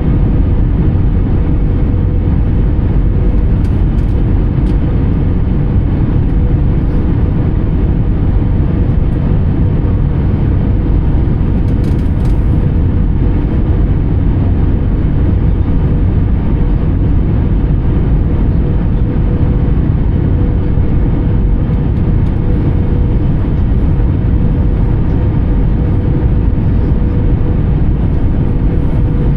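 Steady cabin noise of an Airbus A320 with CFM56 engines: a constant low rumble carrying a steady hum.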